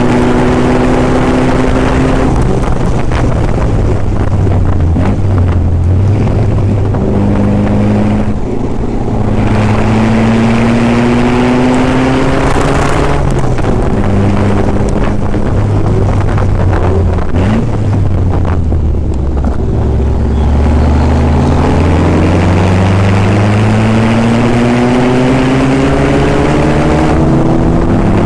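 Classic sports car's engine under hard acceleration, heard from the open cockpit. The pitch climbs through the revs and drops back at each gear change, several times over, with the longest climb near the end. Wind noise hisses throughout.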